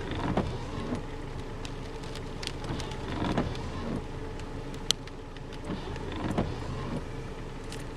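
A motor vehicle running with a steady low hum, with a few dull knocks and one sharp click just under five seconds in.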